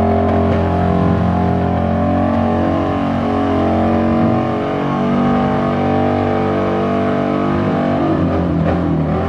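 A car engine held at steady high revs, loud and unwavering. The revs shift and break up about eight seconds in.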